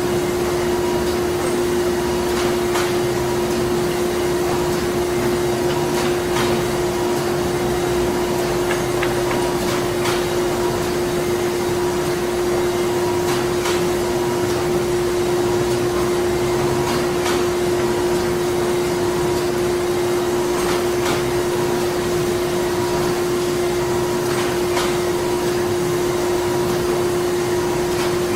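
Printing-factory machinery running steadily: a constant mechanical hum with a held mid-pitched tone, and a faint click repeating about every three and a half seconds.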